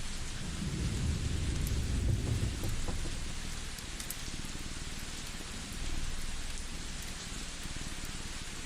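Layered cozy ambience: a steady rain-like hiss under a cat's low purring, which swells and fades in slow breaths, loudest about one to three seconds in and again near six seconds. A few faint crackles from a wood fire tick through it.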